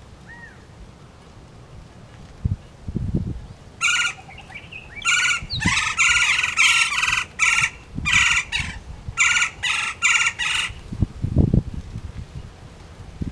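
A bird calling in a rapid series of about seventeen short, harsh calls that starts about four seconds in and stops after some seven seconds, with a few low thumps before and after.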